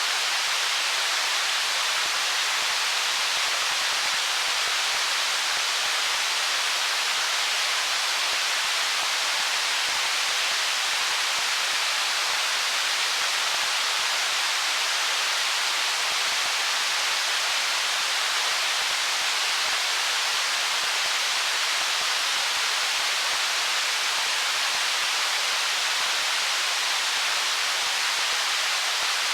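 Stream water flowing over stones: a steady, even hiss of rushing water, bright and thin, with almost no low rumble.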